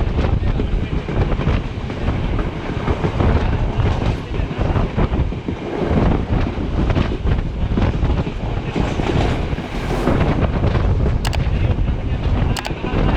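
Passenger express train running along the line, heard from on board: wheels clattering over the rails with wind buffeting the microphone, and two sharp clicks near the end.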